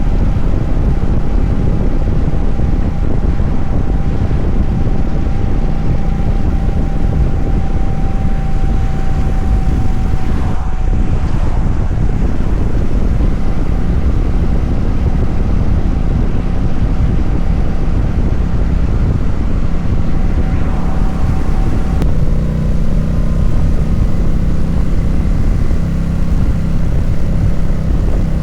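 Kawasaki Vulcan 900's V-twin engine running steadily while the motorcycle is ridden at road speed, under heavy wind noise. The engine note shifts to a new steady pitch about three-quarters of the way through.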